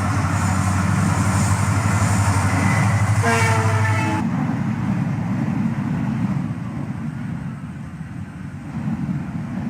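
A train running with a steady low rumble. Its horn sounds once, for about a second, around three seconds in, and the rumble eases after it.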